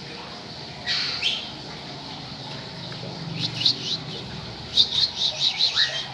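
A bird calling: one harsh note about a second in, a few scattered chirps, then a quick run of about seven high chirps near the end.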